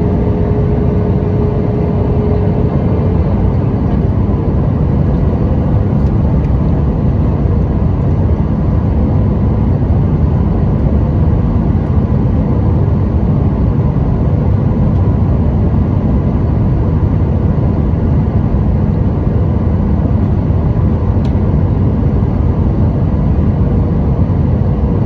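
Steady cabin noise of a Boeing 737-800 in flight: the rush of its CFM56 jet engines and the airflow, a deep, even roar with a faint steady hum above it.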